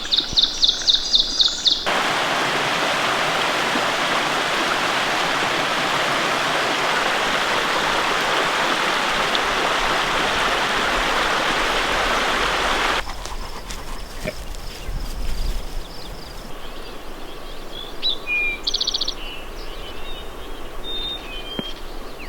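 Bird calls and a rushing mountain stream. A fast, high call repeats about four times a second, then cuts to the steady, loud rush of water for about eleven seconds. That cuts to a quieter background with a few scattered bird chirps and a short trill near the end.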